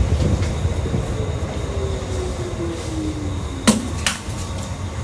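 Commuter electric train running, heard from inside the car, with the rumble of wheels on rail and a motor whine that falls steadily in pitch as the train slows. Two sharp knocks come near the end, the first of them loud.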